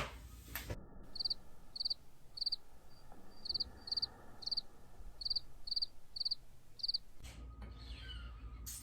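Cricket chirping: a steady run of short, pulsed, high chirps, about two to three a second, that starts abruptly about a second in and stops abruptly near the end.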